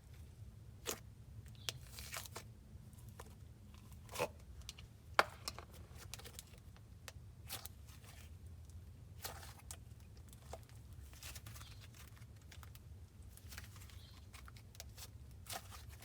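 Clay slime being stretched and squished by hand, giving irregular soft clicks, pops and tearing crackles, with a low steady hum underneath.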